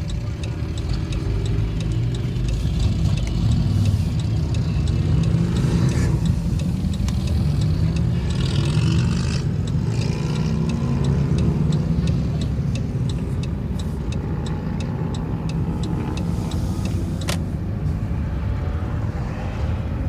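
Traffic heard from inside a slowly moving car with the windows partly down: a continuous low engine rumble from motorcycles around it, with engines revving up and down.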